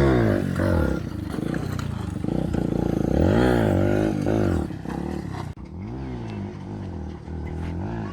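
Motorbike engines revving up and dropping back again, the pitch rising and falling about three times, with the sound suddenly cut back about two thirds of the way through.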